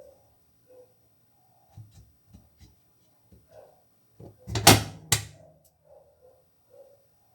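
A few light knocks, then two loud sharp bangs about half a second apart near the end, as of hard washing-machine parts being struck or set down.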